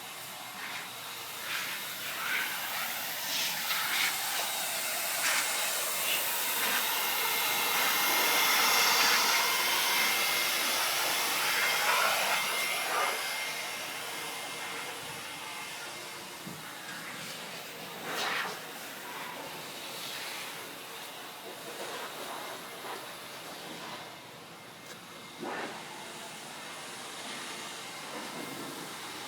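Air blower blowing water off a washed truck: a rushing hiss of high-speed air that swells and fades as it is swept over the body. It is loudest about a third of the way in, then quieter, with brief sharper spurts later on.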